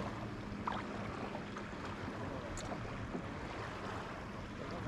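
Steady wind and water noise around a fishing kayak on a lake, with a couple of faint clicks.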